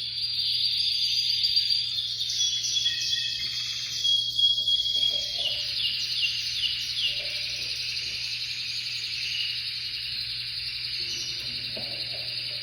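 Spanish canary (Español breed) singing a long unbroken song of high rapid trills and warbled phrases, which stops near the end.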